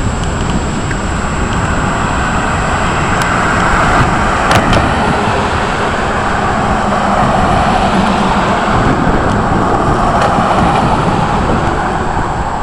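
Thunderstorm rain and wind: a steady, loud rushing with a low rumble, swelling through the middle and easing near the end.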